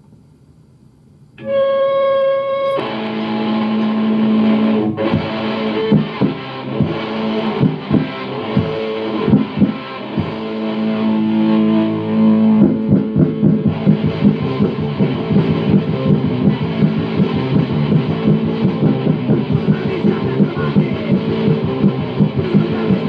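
Punk rock band playing: after a moment of quiet, one held distorted electric guitar note rings out, then drums and the rest of the band come in about three seconds in, with the drumming growing busier about halfway through.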